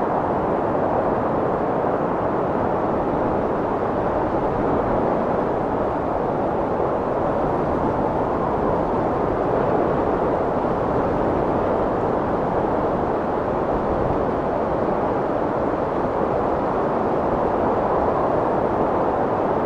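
Strong wind blowing in a steady, dense rush with slight swells, no gusts breaking through.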